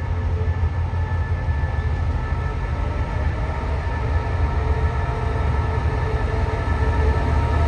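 Diesel-hauled Thai passenger train: a steady low rumble with a few steady whining tones above it, growing slightly louder near the end.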